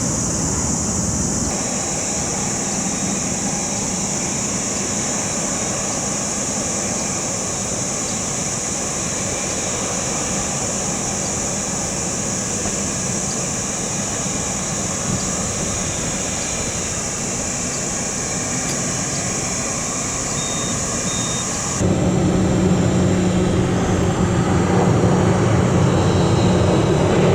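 Jet airliner engines running steadily with a high whine. About 22 seconds in the sound cuts abruptly to a louder, deeper engine rumble with a low steady hum.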